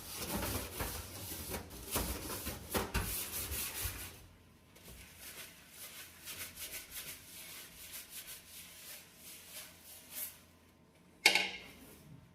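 Stiff brush scrubbing a grimy stove in repeated rubbing strokes, strong for the first few seconds, then lighter and quieter. Near the end comes a single sharp knock.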